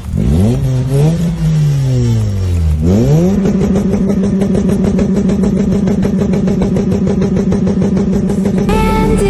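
Modified Toyota Etios sedan's engine being revved: the revs swing up and down twice, then climb and are held steady at high revs for about five seconds. Music comes in near the end.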